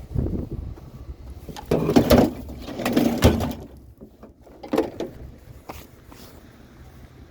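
Scrap item being handled and loaded into a vehicle: irregular knocks, clatter and scraping, loudest in two bursts about two and three seconds in, with a shorter clunk near five seconds.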